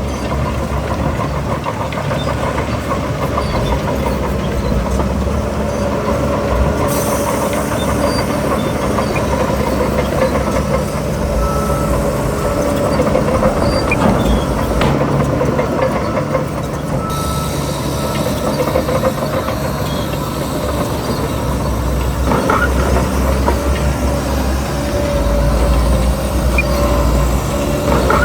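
Heavy diesel engine of earthmoving machinery running steadily, with a few short knocks.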